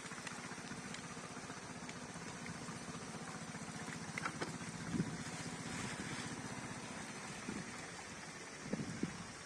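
A small engine running steadily, with a few short knocks near the end.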